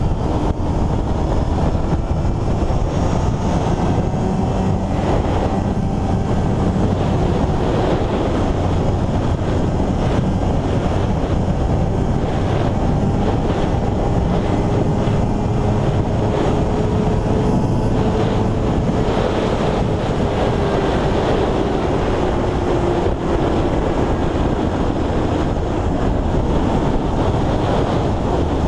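Superbike engine running under a heavy, steady rush of wind on the microphone, its pitch slowly sliding up and down.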